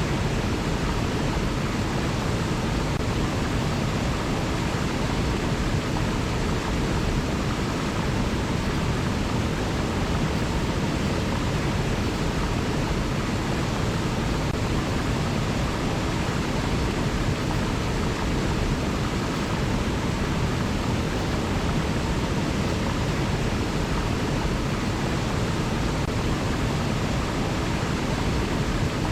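River water flowing, a steady even rushing with no birds or other events standing out.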